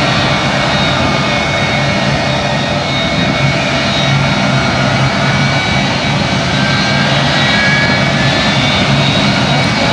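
Jet engines running loud and steady, a dense rushing noise with a low hum and a faint high turbine whine, unchanged throughout.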